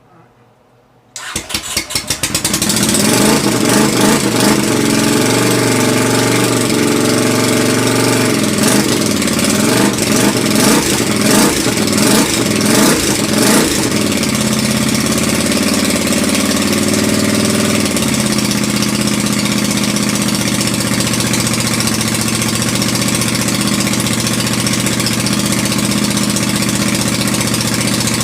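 Carbureted motorcycle engine starting for the first time after a rebuild: it catches about a second in and is blipped up and down for several seconds, then settles into a steady idle.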